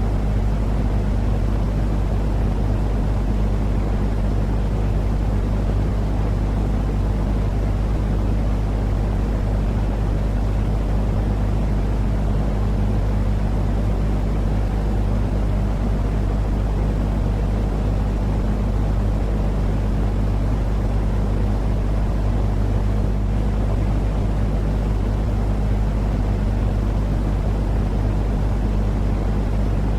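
Continuous low droning noise with a steady hum underneath, like an engine or motor drone. It does not change at all, in the manner of a looped soothing noise track for settling babies.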